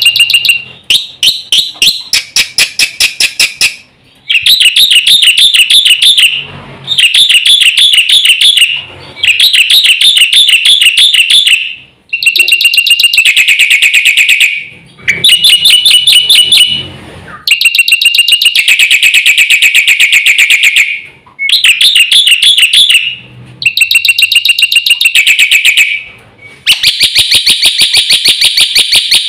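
Black-winged starling (jalak putih) singing loudly in fast phrases of a few seconds each. Each phrase is a rapid run of evenly repeated shrill notes, some opening on a held whistle, with short breaks between phrases.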